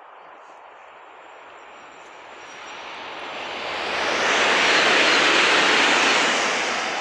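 Renfe Avant Series 104 electric high-speed train passing at speed: a rushing noise that swells from about two seconds in, is loudest near the end, and then begins to fade.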